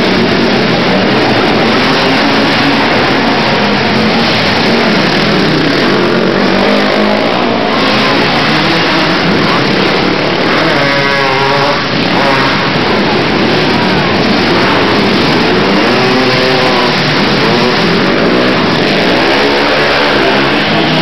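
Several racing quad (ATV) engines running hard, the pitch of individual engines rising and falling as riders rev up and back off, most clearly around the middle and again near the end.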